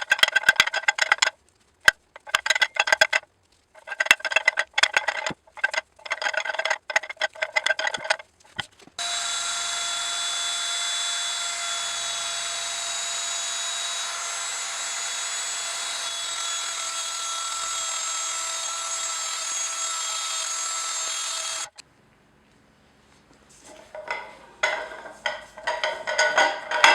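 Rhythmic hand-tool strokes working a part in the shop, then a power tool running steadily for about thirteen seconds and cutting off sharply, then more hand-tool strokes after a short pause.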